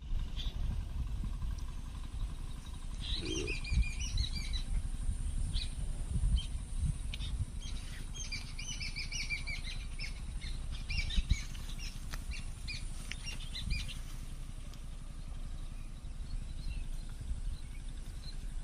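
Small birds chirping in quick twittering runs, busiest about three to four seconds in and again from about eight to fourteen seconds, over a steady, uneven low rumble.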